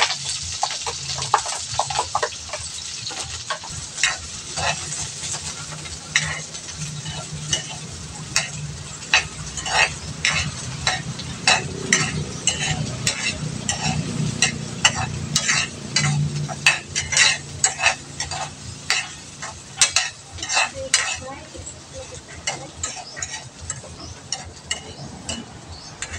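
Food frying and sizzling in oil in a wok, with a spatula repeatedly scraping and clinking against the pan as it is stirred.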